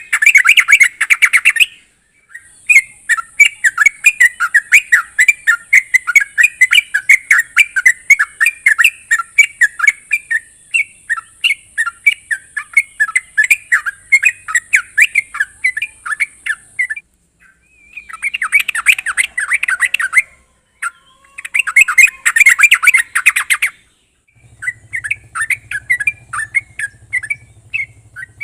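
Yellow-vented bulbul (trucukan) singing in long runs of quick, bubbly chattering notes, broken by short pauses and a few denser bursts. A low hum joins near the end.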